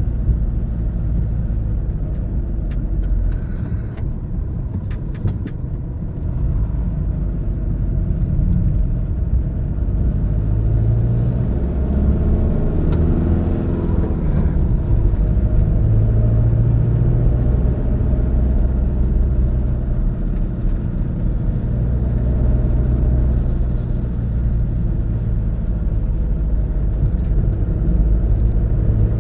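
Car driving: a steady low engine and road rumble, with the engine note shifting in pitch about halfway through. A few light clicks come in the first seconds.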